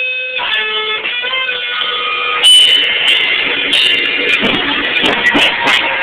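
Live rock band heard through a phone's microphone, distorted and cut off in the highs: an electric guitar holds ringing notes for about two and a half seconds, then the whole band comes in loudly with sharp hits.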